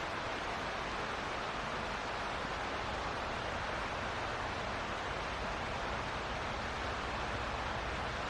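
Steady rush of a mountain creek's flowing water, an even hiss without let-up.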